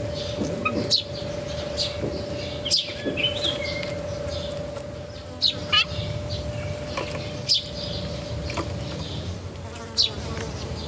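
Small birds chirping in short calls, with several sharp clicks, over a steady hum that fades near the end.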